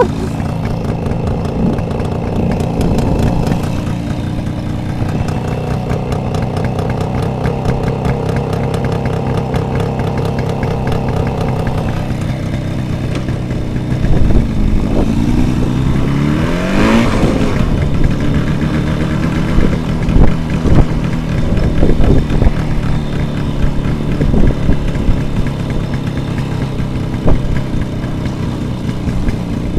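Jawa 638 motorcycle's two-stroke twin engine running as the bike is ridden, holding a steady pitch, then revving up with a rising note about fifteen seconds in before settling back to a steady pitch.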